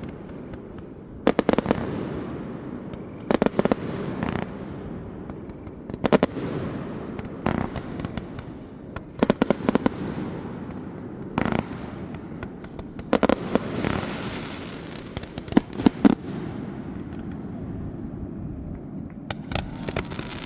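Fireworks going off: clusters of sharp bangs and crackles every second or two, over a continuous rumble.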